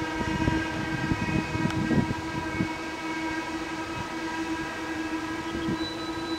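Passenger train of 25T coaches passing, its wheels clacking over rail joints. The clacks come thick for the first two and a half seconds and then thin out to a few, over a steady whine of several pitches.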